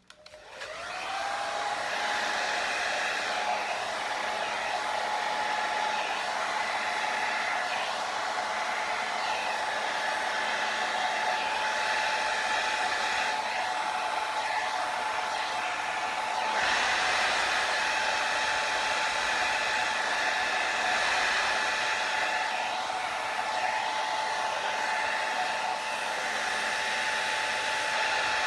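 Hair dryer switched on, its motor whine rising in pitch over the first second, then running steadily with a rush of air. It gets slightly louder a bit past halfway through.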